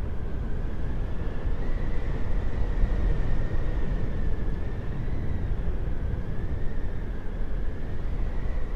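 Howling wind: a steady low rumble of gusts with a thin whistling tone above it that wavers up and down in pitch.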